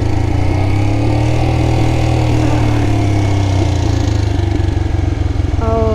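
Single-cylinder Honda dual-sport motorcycle engine running steadily under the rider at an even pace, its pitch wavering only slightly.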